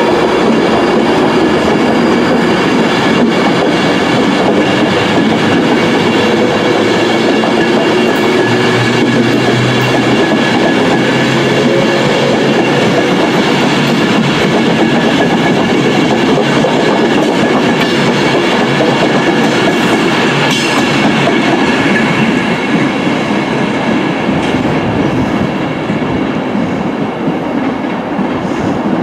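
A passenger train running past close to the platform, a steady rumble with several whining tones over it, easing off a little over the last few seconds.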